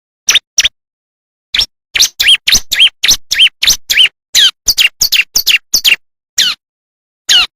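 Bar-winged prinia (ciblek) song: short, sharp, high chirps, most sweeping down in pitch. They come singly at first, crowd into a fast run about two seconds in, and thin to single notes near the end, with dead silence between the notes.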